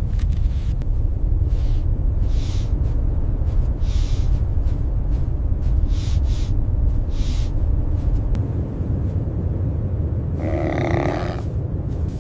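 Steady low rumble of blizzard wind, with soft crunching hisses about every one and a half to two seconds. Near the end comes one short animal call lasting about a second.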